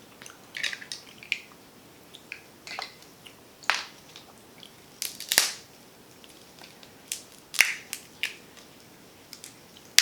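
Snow crab shell being cracked and snapped apart by hand: a string of sharp, irregular cracks and crunches, the loudest about five and a half and seven and a half seconds in.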